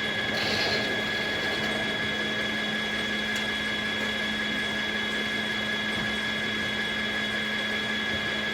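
Circular sawmill running steadily: a constant low hum with a steady high-pitched whine over it, and a short hiss about half a second in.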